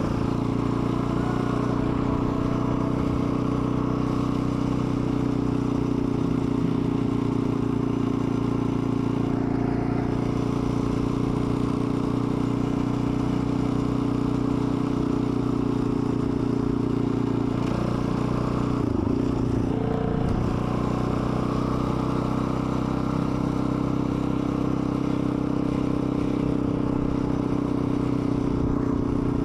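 Dirt bike engine running at a steady speed while riding, its pitch dipping briefly and recovering a little past the middle.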